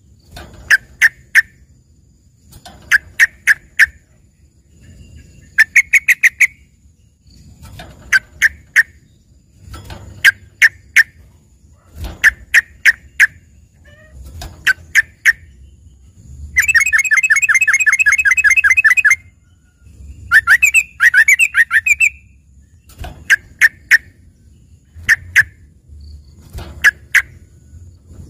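Yellow-vented bulbul (trucukan) singing a mimicked song: short bursts of three or four sharp notes repeated every second or two, a long rapid trill about seventeen seconds in, and a varied, warbling phrase just after.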